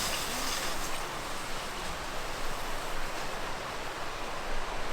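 Steady wind blowing on the mountain, an even rushing hiss.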